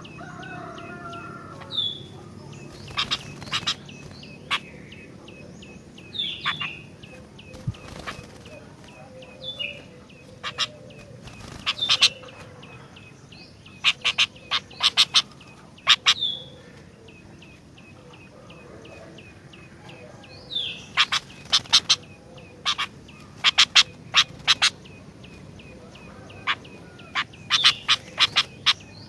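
Sooty-headed bulbul (kutilang) calling in clusters of short, sharp, harsh notes every second or two, with a few brief falling whistles. A fast, faint ticking runs underneath.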